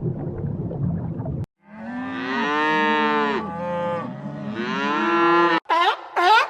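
A cow mooing: two long, drawn-out moos, preceded by about a second and a half of low rumbling noise that cuts off abruptly. Near the end, short high-pitched animal calls start in quick succession.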